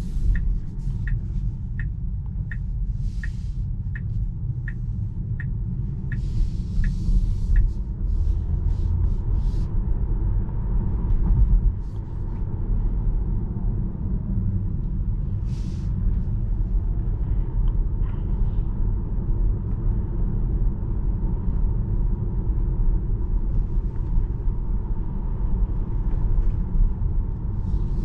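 Steady tyre and road rumble heard inside the cabin of a Tesla Model 3 Performance driving on city streets, with no engine sound from the electric drive. During the first eight seconds a turn-signal indicator ticks evenly, a little under two ticks a second.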